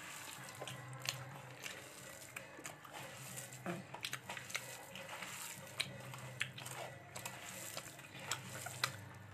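A person chewing a mouthful of food close to the microphone: irregular short wet clicks and smacks of the mouth, over a steady low hum.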